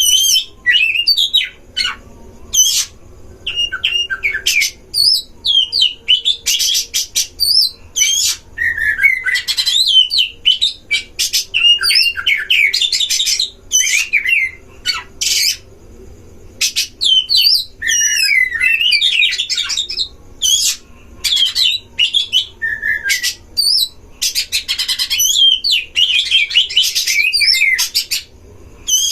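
Oriental magpie-robins singing: a loud, continuous stream of varied whistles, trills, glides and harsher notes in quick phrases separated by brief pauses.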